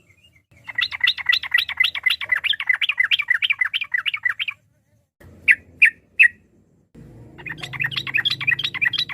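Sooty-headed bulbul (trucukan) singing: a fast run of repeated notes, about five a second, then three sharp single notes, then a second fast run starting near the end.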